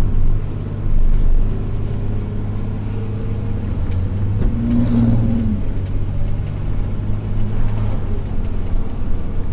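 Fire engine's engine and road noise heard inside the cab while it drives on, a steady low drone. A short low tone sounds briefly about halfway through.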